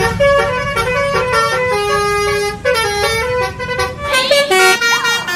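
Telolet bus horn playing a fast melody of short, stepped notes, with a brief sliding tone near the end.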